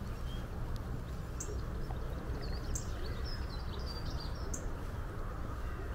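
Small songbirds chirping and twittering in a short run of quick calls through the middle, over steady, mostly low-pitched outdoor background noise.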